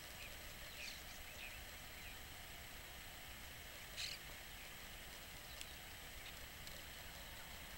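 Small birds giving short, faint high chirps about a second in, then one louder brief call about four seconds in, over a steady outdoor hiss.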